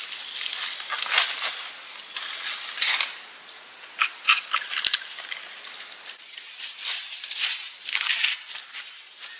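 Irregular crunching and crackling of dry leaves and twigs being handled or stepped on, in short uneven bursts, with a faint thin steady whine in the middle.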